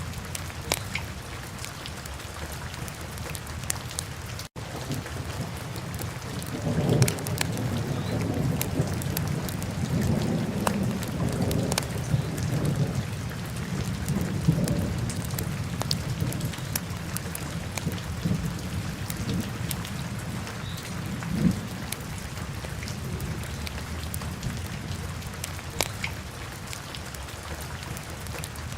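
Wood fire burning in a fireplace, crackling and popping with scattered sharp snaps over a steady hiss. A deeper rumble swells about a quarter of the way in and fades by the middle.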